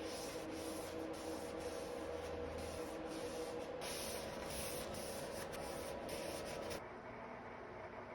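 Rhythmic hand-rubbing strokes on wood, like sanding or wiping, about two to three strokes a second. The strokes get quieter near the end.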